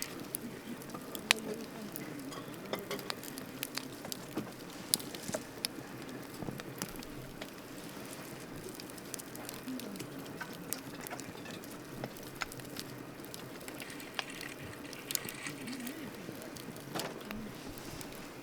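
Wood campfire crackling, with a steady low hiss and irregular sharp pops; the loudest pops come about a second in and about five seconds in.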